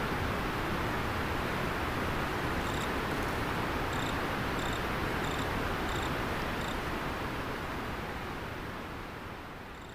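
River water flowing steadily, with an insect chirping in short, evenly spaced chirps about every half second for a few seconds in the middle and once more near the end. The whole sound fades out over the last three seconds.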